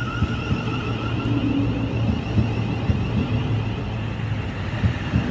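Thameslink Class 700 electric train running into the station: a steady low hum and rumble with irregular short clicks and knocks, and a faint high whine above it.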